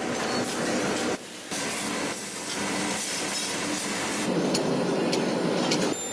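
Factory machinery din with metal clanks and knocks. It breaks off abruptly about a second in, then resumes and grows heavier near the end.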